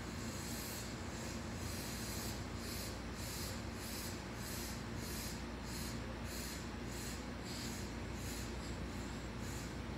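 Sanyo Electric Railway train pulling slowly into the station: a steady low rumble with a scratchy hiss that pulses about twice a second.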